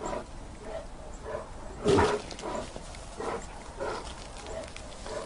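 Grizzly bear making soft, irregular huffing sounds, with one louder huff about two seconds in.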